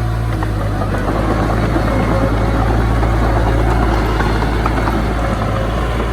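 Heavy diesel engine of earthmoving machinery running steadily, a deep drone with clattering noise over it, a little louder through the middle.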